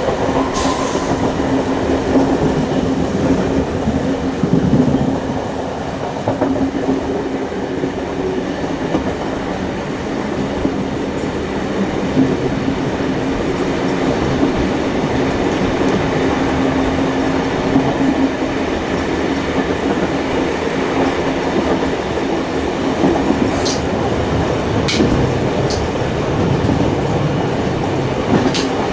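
Steady running noise of a steam-hauled heritage train in motion, with a constant low hum. A few sharp clicks come about a second in and again near the end.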